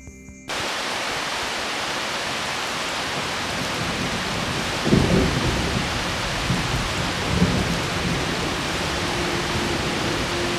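Heavy rain falling steadily, coming in abruptly about half a second in, with low rumbles of thunder around the middle. A steady low tone joins near the end.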